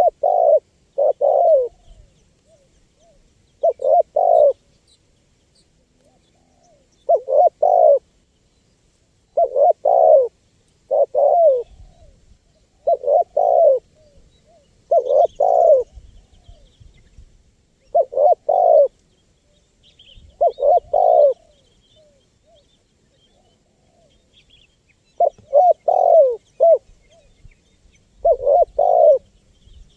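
Spotted dove cooing over and over: a low two- or three-note coo phrase every two to three seconds, the call used to lure wild doves. Faint high chirps of small birds sound between the phrases.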